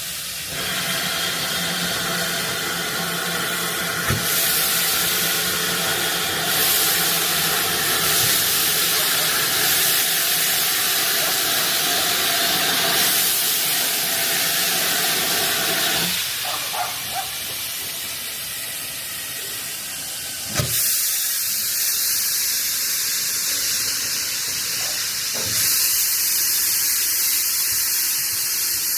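Steam locomotive venting steam: a loud, steady hiss with a faint tone running through it. It eases off about two-thirds of the way through, then a knock and the hiss builds up again.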